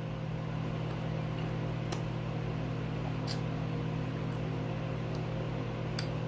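Steady low electrical hum with several evenly spaced tones, and a few faint short clicks about two, three and six seconds in.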